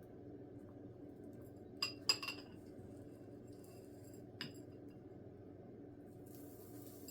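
A few light, ringing clinks of a hard utensil or container while birdseed is filled into the orange-peel feeders: a quick cluster of three about two seconds in, then one more a couple of seconds later, over a low steady hum.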